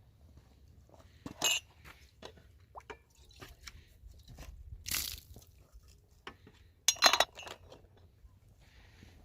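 Scattered crunches, clicks and knocks. A brief hiss comes about five seconds in, and a quick cluster of sharp knocks about seven seconds in is the loudest part.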